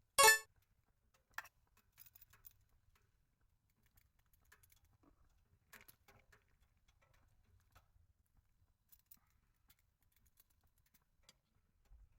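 A short, bright clink near the start, then a single tap about a second later and scattered faint clicks and taps of small things being handled.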